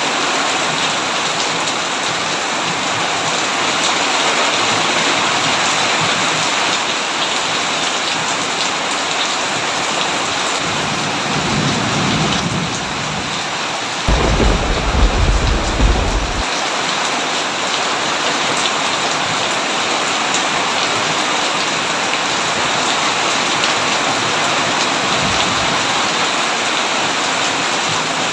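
Heavy rain falling steadily. A roll of thunder builds about ten seconds in and is loudest at around fourteen to sixteen seconds, then fades back under the rain.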